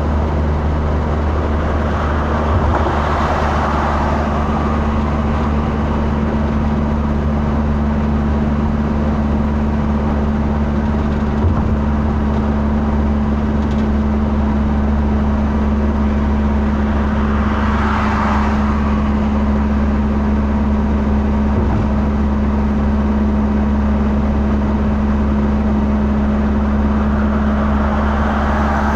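Steady drone of a moving vehicle's engine and road noise, with three brief swells of passing traffic: one about three seconds in, one midway and one near the end.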